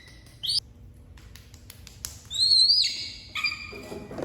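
Baby monkey squealing in high-pitched cries: a short rising squeak about half a second in, then a louder wavering squeal about two seconds in, followed by a shorter cry.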